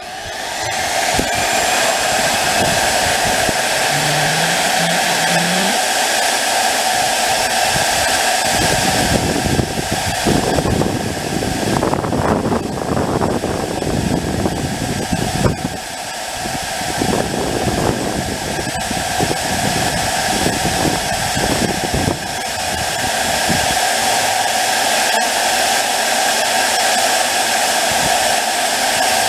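Gasifier start-up blower spinning up with a whine and then running steadily, drawing air through the charcoal so the gasifier starts making gas before the flare is lit. Uneven lower noise comes and goes over it for several seconds in the middle.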